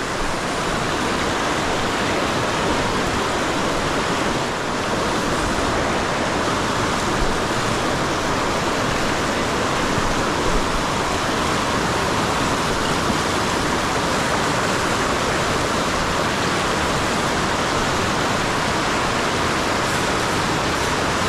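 Steady rushing of fast river current, an even hiss of flowing water with no breaks.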